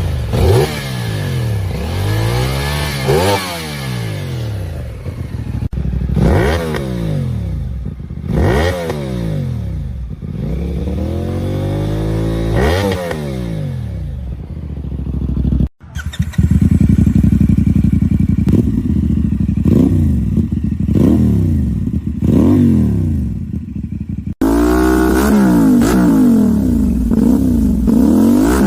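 CFMoto 450's parallel-twin engine and exhaust being revved in repeated blips, the pitch climbing and falling back each time. The sound cuts abruptly a few times, and the revs come quicker and louder in the second half.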